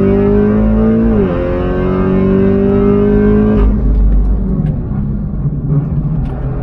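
Tuned Audi S3's turbocharged four-cylinder engine pulling hard under acceleration: the pitch rises, drops sharply for an upshift about a second in, and climbs again. A little past halfway the engine note cuts away abruptly, leaving a rougher, noisier rumble.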